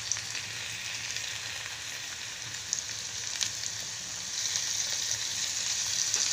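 Raw boneless chicken breast pieces, sliced onions and green chillies sizzling in hot oil in a kadai, the chicken just added, with a few sharp crackles of spattering oil. The sizzle gets louder about four seconds in.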